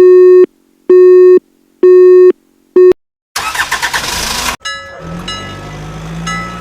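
Telephone calling tone: three long beeps about a second apart and a fourth cut short, as a call to the firefighters goes through. Then a loud burst of hiss about a second long, and a vehicle engine starting and running steadily, with repeating beeps over it.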